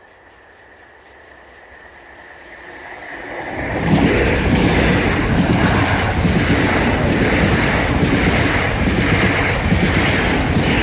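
Great Northern Class 365 electric multiple unit approaching and passing at speed. The noise builds over a few seconds, then a loud rush of wheels on rail with a regular beat as the carriages go by.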